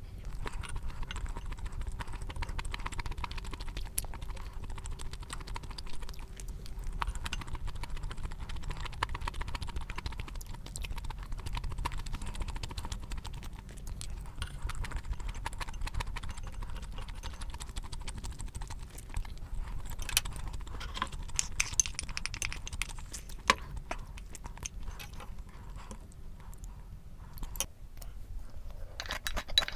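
Close-miked chewing of fried rice, with many small wet mouth clicks and the knock and scrape of a wooden spoon against a ceramic bowl.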